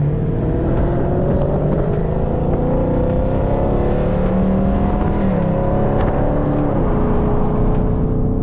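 Dodge Scat Pack's 392 HEMI V8 pulling hard, its note climbing steadily through a gear. It shifts about five seconds in, shifts again near seven seconds and settles to a steady drone near the end.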